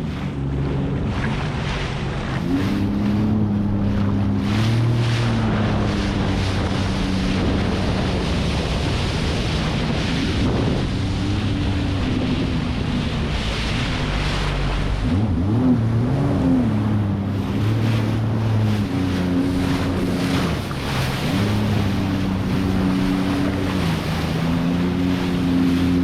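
Sea-Doo jet ski engine running, its pitch stepping up and down several times as the throttle is worked, over steady water rush and wind on the microphone.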